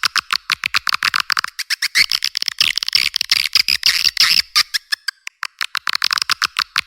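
Swiftlet calling recording: rapid twittering chirps and clicks, many a second, densest in the middle and thinning for a moment about two-thirds through. It is the kind of lure call played to draw swiftlets into a swiftlet house.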